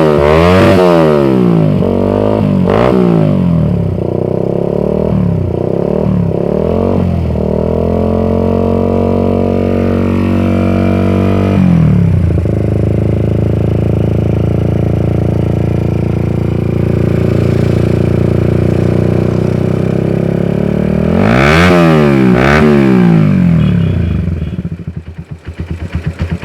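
Suzuki Satria FU motorcycle engine running through an aftermarket AT19 Racing full exhaust, revved in a series of quick throttle blips, held at a higher rev for a few seconds, then running steadily before two more blips. Near the end the engine slows in separate pulses and stops.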